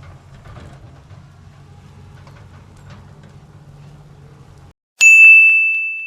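A faint, low, steady engine rumble cuts off abruptly near the end. After a moment of silence a single loud, bell-like ding rings out and fades.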